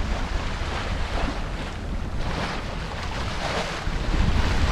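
Wind buffeting the microphone aboard a sailing yacht under way, over the rush of water along the hull.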